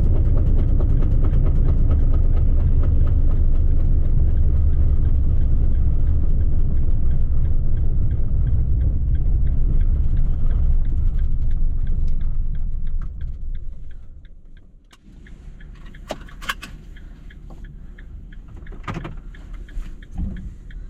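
A van driving on a snowy road with snow chains on its tyres: loud, low road and engine noise that fades over a couple of seconds, about twelve seconds in, as the van slows and pulls over to a stop. After that come a few sharp clicks and knocks.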